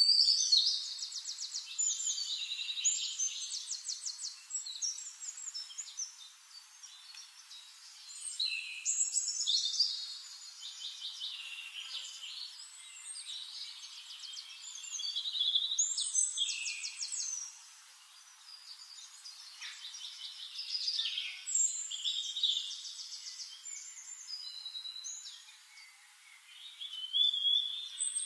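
A songbird singing phrases of rapid trills and quick high whistled notes, with a new phrase every few seconds.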